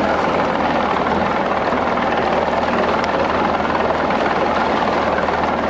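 Motorboat under way: a steady engine hum under an even rush of wind and water noise.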